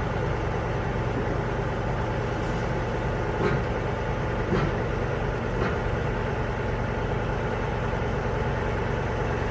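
Vehicle engine idling steadily, with three faint clicks about a second apart near the middle.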